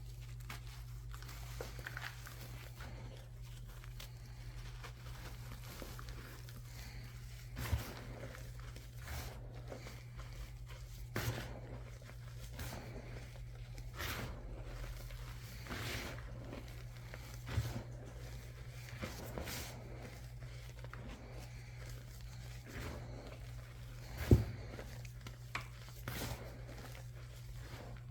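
Reformed chalk being crushed by hand: scattered sharp crunches and snaps a few seconds apart, the loudest about three quarters of the way through, over a steady low hum.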